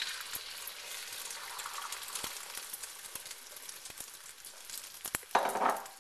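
Beaten eggs sizzling in hot olive oil in a wok, the sizzle strongest at first and easing off. A few light knocks come through it, and a short louder burst of noise comes near the end.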